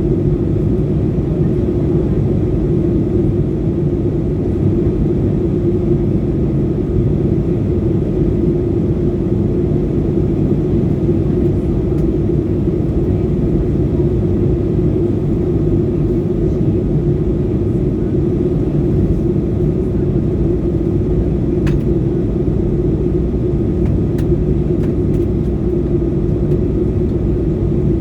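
Airliner cabin noise in flight: a steady, loud rumble of jet engines and airflow with a constant low hum.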